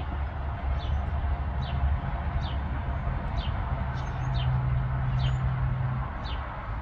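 Small songbird calling with short, falling chirps, about one a second, over a steady low rumble.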